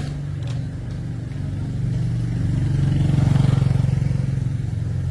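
A small engine running with a low, pulsing hum that grows louder about three seconds in and then eases back.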